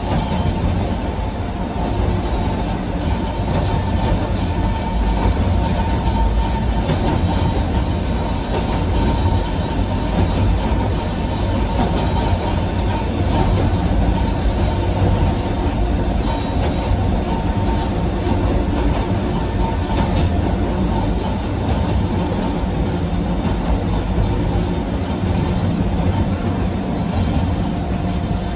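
Cabin sound of a Sangi Railway Hokusei Line motor car (Mo 275), a 762 mm narrow-gauge electric railcar, running along the line. A steady rumble of wheels and bogies on the rails carries a constant hum, with a few faint clicks and rattles.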